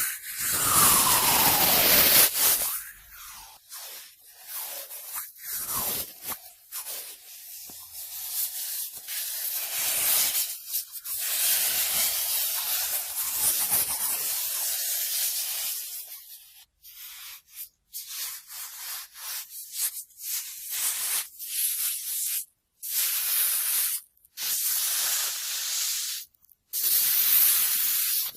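Cotton swab swirling and rubbing close against a binaural microphone's ear canal, making a loud, scratchy rustling hiss. In the last third it comes as separate strokes a second or two long with brief silences between.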